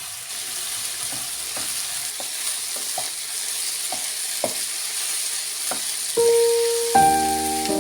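Food sizzling in a frying pan while it is stirred, the utensil clicking against the pan about twice a second. Piano music comes in near the end.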